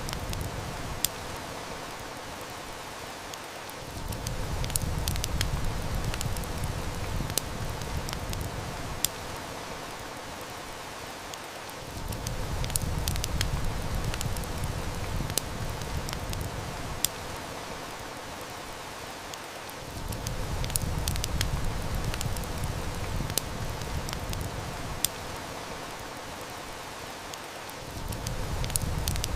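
Steady hiss of heavy rain with sharp wood-fire snaps and crackles scattered through it. A low rumble comes in for about eight seconds at a time and drops out again, twice, and swells once more near the end.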